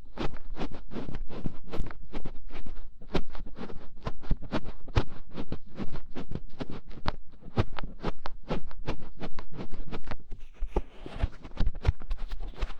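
ASMR ear scratching on a binaural microphone's ear: quick scratchy strokes, several a second. About ten seconds in, a softer hissing rub joins the strokes for a couple of seconds.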